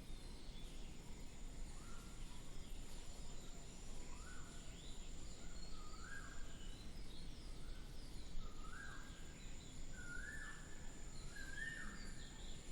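HP DeskJet 2331 inkjet printer printing a test page: a series of short motor whines, each rising quickly to a steady pitch and then stopping, repeating about every second and growing louder toward the end.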